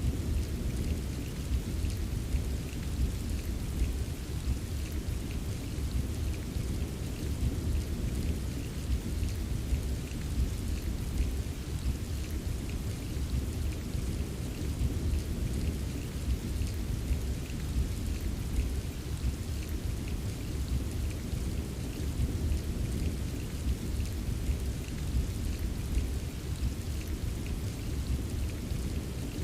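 Steady rain with many small drops tapping, over a continuous low rumble of distant thunder; no sharp thunderclap.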